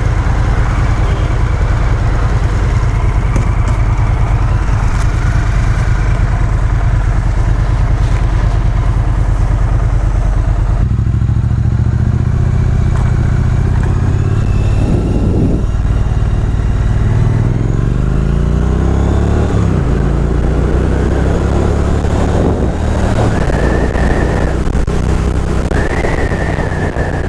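Motorcycle engine running under way; about halfway through it pulls away, its pitch rising and falling back several times as it accelerates through the gears.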